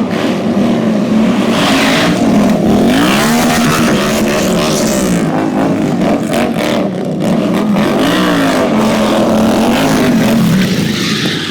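Indian Scout motorcycle V-twin engine revving hard, loud, its pitch swelling up and falling back again and again.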